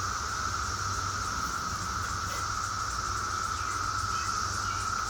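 Steady, unbroken chorus of insects such as crickets, with a low hum underneath.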